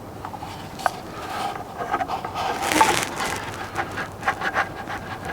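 Scattered clicks and short scrapes, with a louder scrape about three seconds in: a door mirror being handled and held against a car door to try its position.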